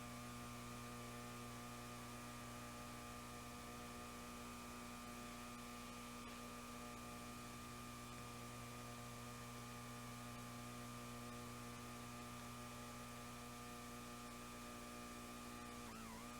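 Faint, steady electrical hum with a low buzz and a thin, slightly wavering high tone above it.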